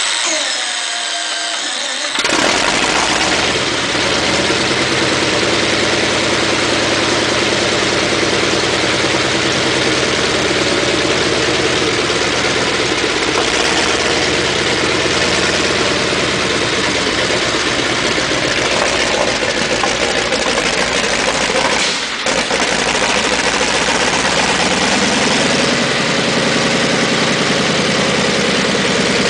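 Sherman tank engine being started: about two seconds of starter cranking with a gliding whine, then the engine catches and runs loud and steady. It falters briefly about 22 seconds in, and its pitch rises a little a few seconds later.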